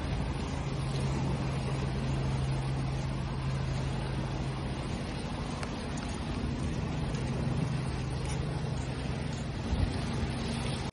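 Ocean waves washing steadily, an even hiss of surf, with a steady low hum underneath.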